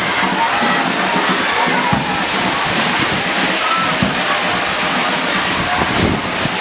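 Heavy rain pouring steadily, with a crowd's voices singing and calling faintly above it.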